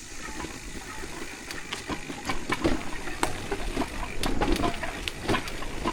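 Electric mountain bike clattering down a rough dirt trail: irregular knocks and rattles over a low rumble, growing busier after about a second and a half.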